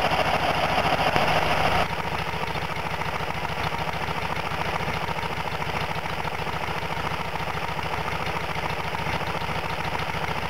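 1970 VW Westfalia bus's air-cooled flat-four engine idling steadily after a cold start, with an even pulsing beat. About two seconds in, the sound drops a little in loudness and becomes less bright, then stays steady.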